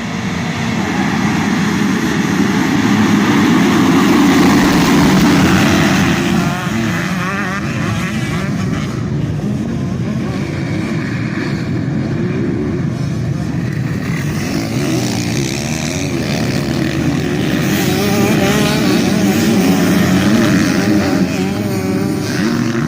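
Motocross bike engines racing past, revving up and down as riders accelerate and shift, louder as bikes come close.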